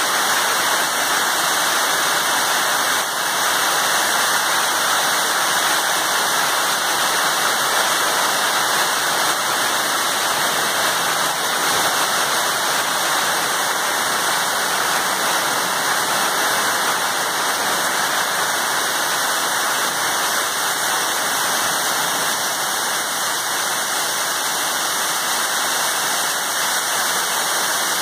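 Hail and heavy rain coming down in a dense, steady downpour, a continuous hiss of countless impacts that holds level throughout.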